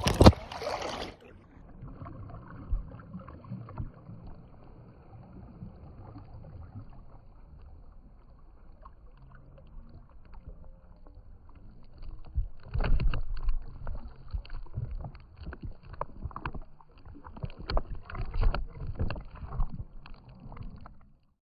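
Muffled underwater sound heard through a phone sealed in a plastic zip bag. A second of splashing as it goes under, then a dull low rumble with the highs cut off, and from about halfway in, louder knocks and rustling of the bag being handled.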